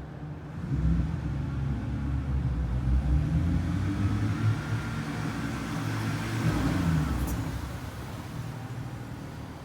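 BMW E92 with an N52 inline-six, muffler deleted and resonators still in place, driving past. Its exhaust swells about a second in, holds for several seconds and fades away near the end.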